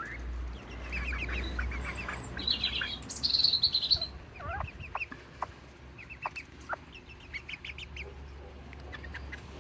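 Serama bantam chickens clucking in short runs of quick notes, with a brief, louder high trill about three seconds in.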